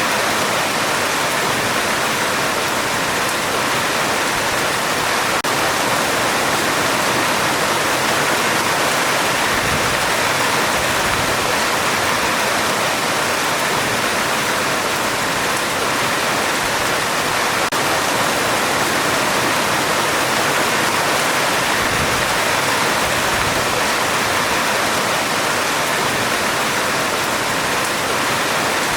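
Heavy rain falling on a metal roof, a steady, dense hiss without letup.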